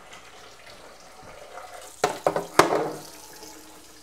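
Water running from a kitchen tap into the sink. About two seconds in comes a quick run of sharp knocks, the loudest a little after the first, with a short ringing tail.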